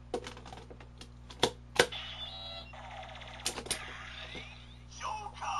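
Sharp plastic clicks as a toy Gaia Memory is snapped into a Kamen Rider Double Driver toy belt, the two loudest about a second and a half in, then the toy's electronic sound effects playing from its small speaker, with more clicks in between and a louder sound starting near the end. The memory and belt sounds are not synchronized, because the memory was designed to sound on its own.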